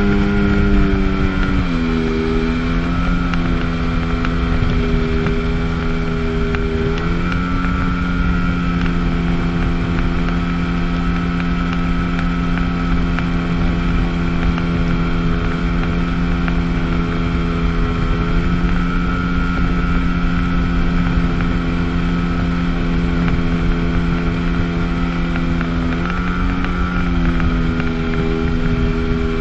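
Sea-Doo GTS jet ski's Rotax 720 two-stroke twin engine running steadily under way. The engine note drops about two seconds in, rises again around seven seconds, then dips briefly and climbs back near the end, over a steady rushing noise.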